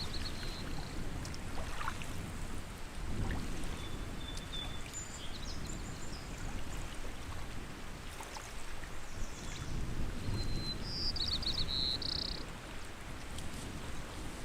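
Lake water lapping in a steady low wash that swells and eases. Small birds call over it in short high notes, with a quick run of chirps about eleven seconds in.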